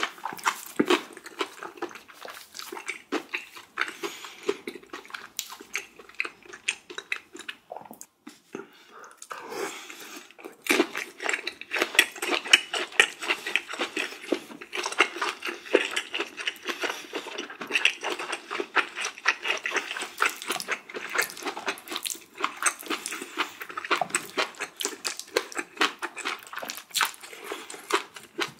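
Close-miked chewing and mouth sounds of a person eating, a dense run of quick wet smacks and clicks.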